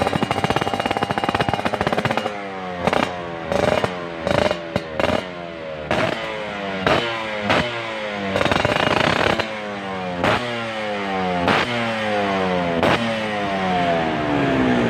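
Yamaha F1ZR Force1's two-stroke engine running through a WRS aftermarket exhaust. It is held at high revs for about two seconds, then blipped again and again, roughly once a second, with the pitch dropping back after each sharp rev.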